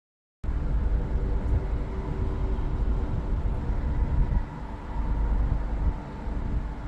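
Steady low rumble of a running vehicle, with a faint mechanical hum over it. It cuts in suddenly after dead silence.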